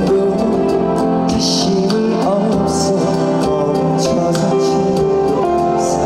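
Live band music from a stage performance over a PA, with sustained instrumental tones and a steady beat.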